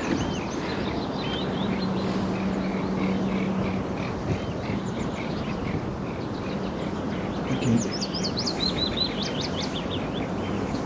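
Several small songbirds chirping and singing over a steady outdoor background noise. Toward the end one bird's song runs down in pitch in a quick series of notes.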